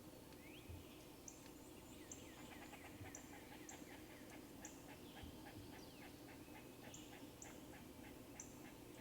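Faint bird calls in woodland: short high chirps repeating every half second or so, with a quick run of rapid notes in the middle.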